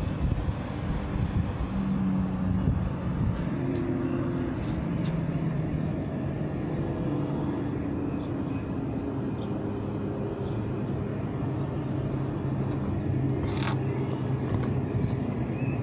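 Street traffic: car engines running close by as a low, steady rumble whose pitch shifts as the cars move, with a single sharp click about 13 seconds in.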